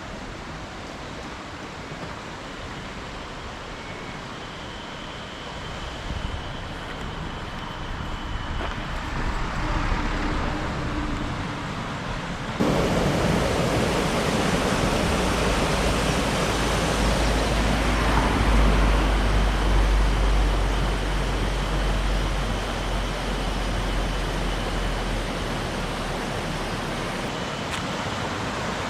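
Rushing water of a mountain stream, a steady hiss that jumps suddenly louder and fuller about a dozen seconds in, with a deep rumble under it through the middle.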